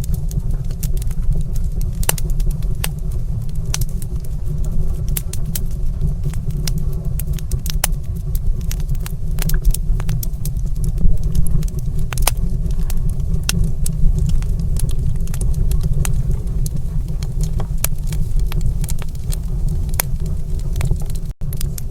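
Wood fire in a stone fireplace crackling, with frequent sharp irregular pops over a steady low rumble. The sound cuts out for an instant near the end.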